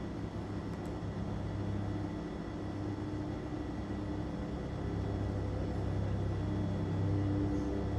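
A steady low mechanical hum with a few held tones, growing slightly louder in the second half.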